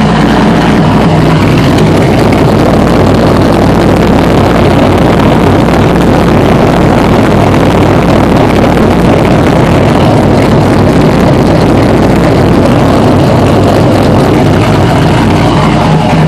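1998 Camaro Z28's LS1 V8 idling cold on a newly flashed tune, loud and steady, with a full, rough exhaust note.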